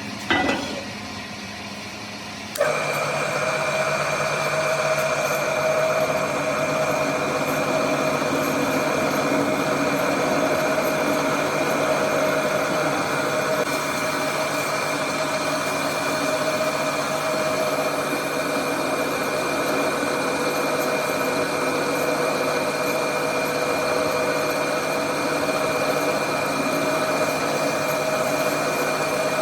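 A workshop machine starts up about two and a half seconds in and runs steadily, with a constant hum and whine that holds the same pitch, after a brief loud sound at the very start.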